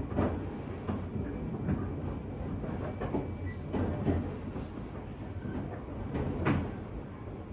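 Running sound inside a motor car of a JR West 201 series electric train: a steady low rumble of wheels on rail, with the clack of wheels over rail joints several times, loudest about four seconds in and again about six and a half seconds in.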